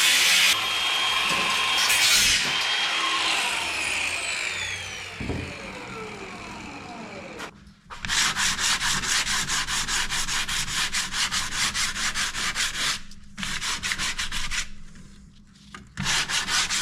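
A power saw finishes its cut and its motor winds down, the whine falling in pitch over several seconds. Then a freshly cut wood panel edge is hand-sanded in quick back-and-forth strokes, about five a second, in three spells with short pauses between.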